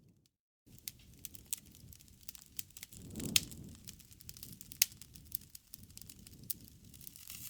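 Campfire crackling: irregular sharp pops and snaps over a low, steady rumble of burning wood, with a louder swell and pop a little past three seconds. The sound cuts out to silence for about half a second just after the start.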